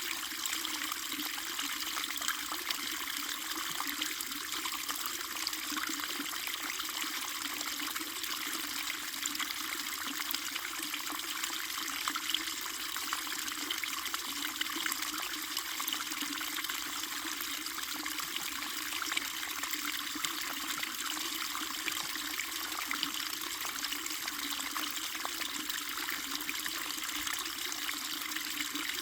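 Small stream of running water trickling steadily, a constant splashing hiss.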